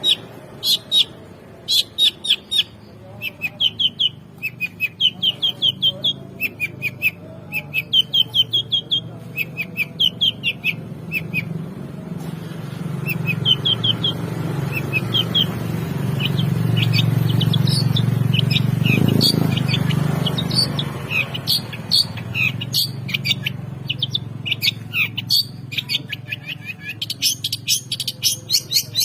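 Long-tailed shrike (cendet) singing busily in quick runs of short, sharp repeated chirps. A low rumble swells and fades about halfway through.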